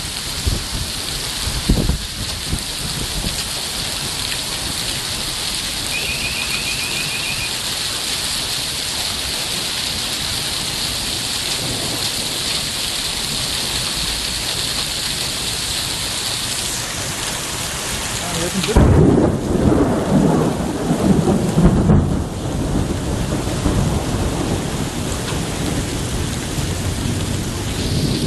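Heavy rain pouring steadily in a thunderstorm. About two-thirds of the way in a loud thunderclap breaks in and rumbles on for several seconds before the rain noise settles back.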